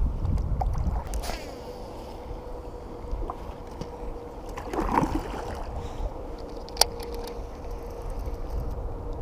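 A kayak on moving water: low rumbling water and wind noise, with a few small handling knocks and one sharp click a little before the end. A faint steady hum runs underneath from about a second and a half in.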